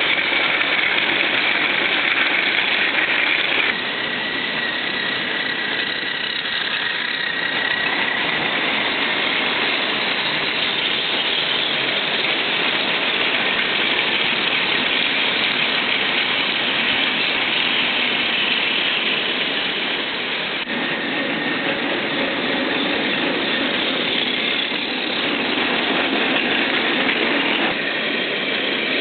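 Battery-powered Plarail toy train motors whirring steadily with a high gear whine as they run along plastic track. The sound shifts abruptly a few times, about 4, 21 and 28 seconds in.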